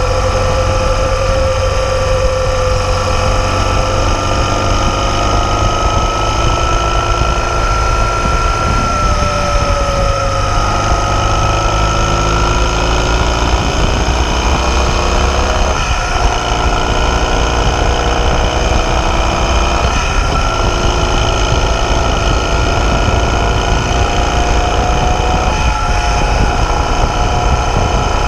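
BMW R 1200 GS boxer-twin engine running steadily at road speed, its pitch drifting slightly up and down with small throttle changes, under heavy wind rush.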